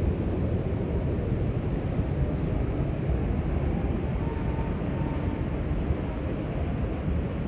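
Storm wind rumbling steadily on the microphone, with no let-up.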